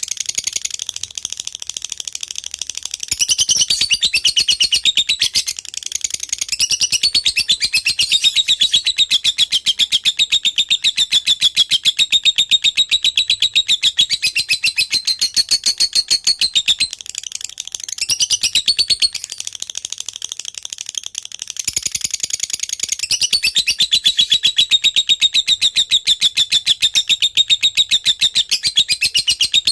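Lovebird singing a long, unbroken run of rapid high-pitched chirps: the continuous 'gacor' chatter prized in fighter lovebirds. It eases off briefly a few times, then picks up again.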